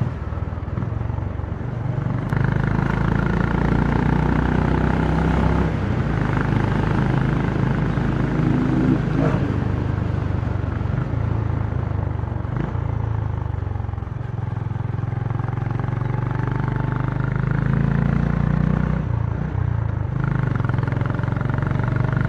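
Honda CB350 motorcycle engine and exhaust running while riding. The engine note rises as the throttle opens about two seconds in, then eases off and picks up again over the stretch.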